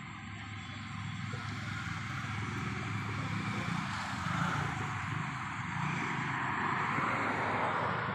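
Distant engine drone with a rushing noise, growing louder over several seconds.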